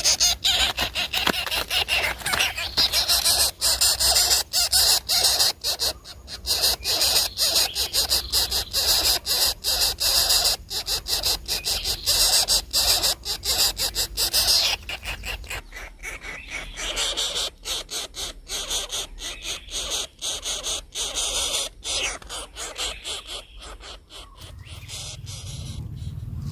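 Harsh, rapidly pulsing squealing calls, typical of coucal chicks begging at the nest. The calls get quieter about halfway through.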